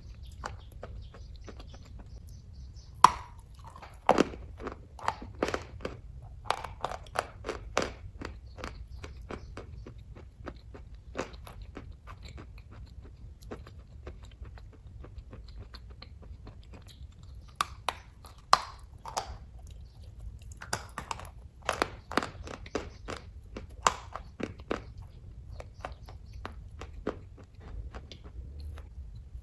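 A person chewing kaju katli, a soft cashew fudge, close to the microphone: a run of short wet mouth clicks and smacks. The clicks come in two busy spells, a few seconds in and again in the second half, with sparser chewing between, over a low steady hum.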